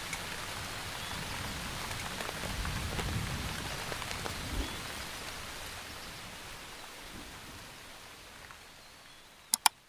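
Steady rain falling, with a low rumble swelling around the middle, then slowly fading away. Two sharp clicks come just before the end.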